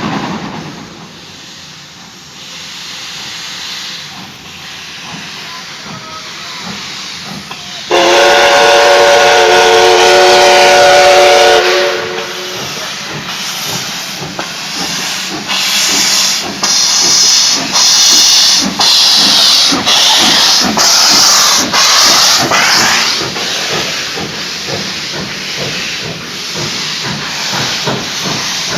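Steam locomotive hissing at a stand, then sounding its whistle, a loud chord of several tones held for about four seconds. As the whistle stops, the exhaust starts chuffing in beats that come faster and faster as the train pulls away, with loud bursts of steam hiss.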